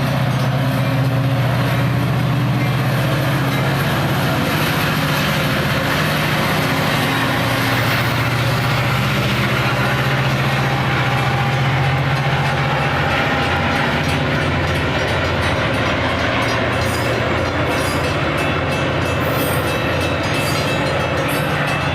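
A train passing close by: a steady low diesel engine hum under loud wheel and rail noise. In the second half, a rapid clatter of wheels over rail joints comes in.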